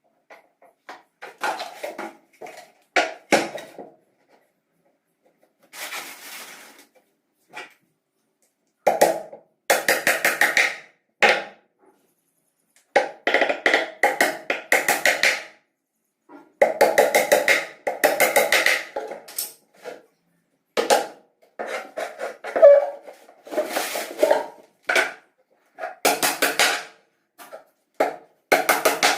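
Rapid knocking on wood in bursts of many quick strikes, with short pauses between the bursts.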